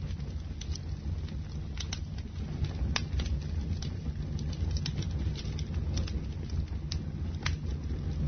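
Bonfire burning: a steady low rumble of flames with irregular sharp crackles and pops from the burning wood, several every couple of seconds.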